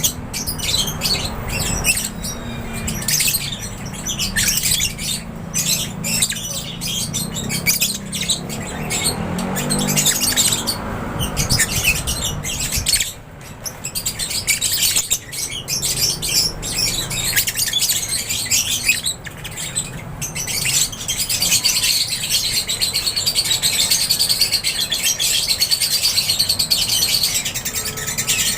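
A flock of aviary lovebirds chirping and chattering continuously in dense, overlapping high-pitched calls. A low rumble runs underneath for the first half and drops away about halfway through.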